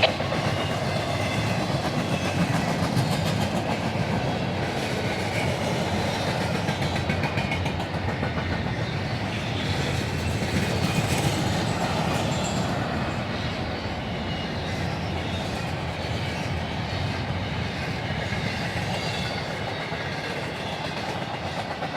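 Intermodal freight train rolling past, its wheels clattering steadily over the rail joints, with the sound easing off in the last few seconds.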